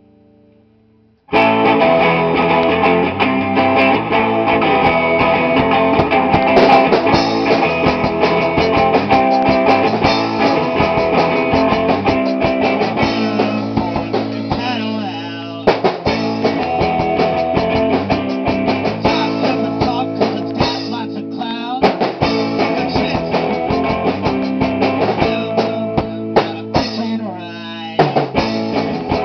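Rock band playing live: electric guitar, bass and drum kit. It comes in loudly all at once about a second in, after a faint held tone.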